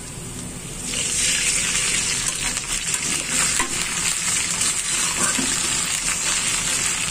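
Sliced onions, green chillies and freshly added ginger paste sizzling in hot oil in a karahi while a metal spatula stirs them. The sizzle jumps up about a second in, as the paste is worked into the oil, and then holds steady.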